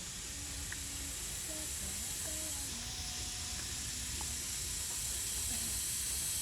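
Cicadas buzzing in a steady high-pitched drone, which grows louder about halfway through.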